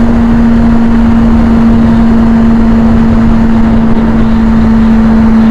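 Steady, loud noise of a vehicle under way: low road and engine rumble with a constant hum that holds one pitch throughout.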